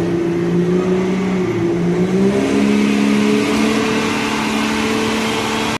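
Diesel pro stock 4x4 pickup truck engine running hard under load on a pull, a steady pitched engine note that dips briefly about a second and a half in, then climbs and holds higher.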